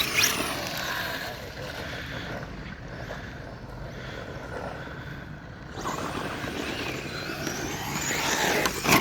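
Radio-controlled 2WD short course trucks with brushless electric motors driving, their motors whining over tyre and ground noise. The whine climbs in pitch near the end as a truck speeds up.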